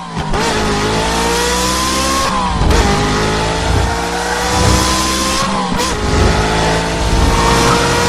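Car engine at high revs accelerating through the gears: its pitch climbs slowly, then drops sharply at an upshift, twice.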